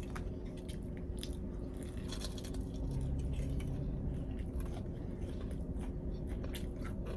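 Close-up mouth sounds of someone biting and chewing crunchy fried chicken tenders, with scattered irregular crunches and no steady rhythm. A steady low hum runs underneath.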